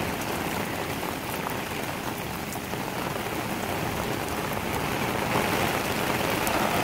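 Heavy rain pouring steadily, with scattered drops ticking on hard surfaces; it grows slightly louder toward the end.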